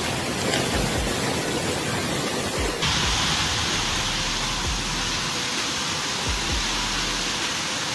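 Steady rush of a windstorm with heavy rain, turning to a brighter, hissier noise about three seconds in.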